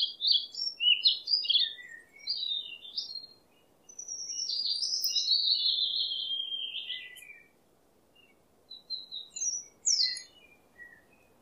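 Songbirds singing: a run of quick chirps over the first few seconds, a longer warbling phrase about four to seven seconds in, then scattered chirps near the end.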